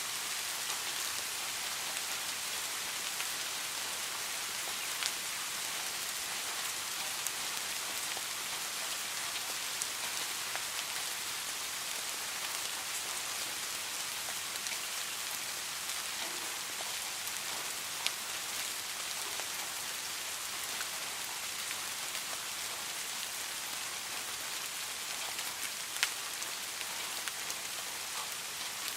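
Steady rain, an even hiss with a few sharp single ticks standing out, the clearest two about eighteen and twenty-six seconds in.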